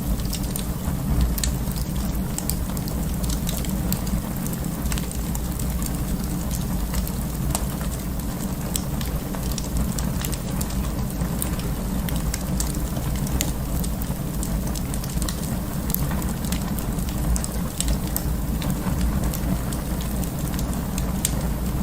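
Wood fire burning in an open fireplace: many small, irregular crackles and pops over a steady low rumble of the flames.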